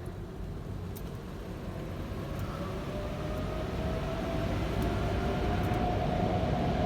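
Conveyor car wash tunnel machinery running, heard from inside the car and growing steadily louder, with a steady motor whine coming up over the rumble.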